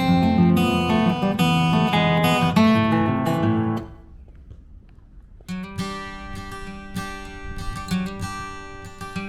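Acoustic guitar music. The piece ends almost four seconds in, and after a short pause a new guitar piece begins.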